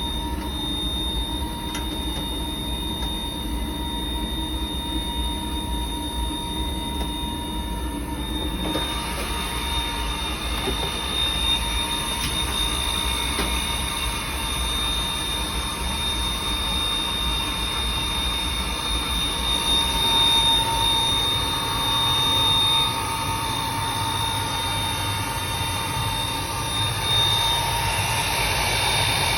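Riello 40 F5 oil burner running with a steady high-pitched squeal from its blower motor, which the owner takes to be a probable failing motor bearing. A louder rushing noise joins the squeal about nine seconds in.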